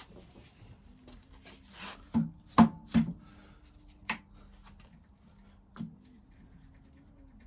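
Sharp knocks and clinks of tools and engine parts being handled during dismantling. Scraping comes first, then three knocks close together a little over two seconds in, and two more spaced out after them.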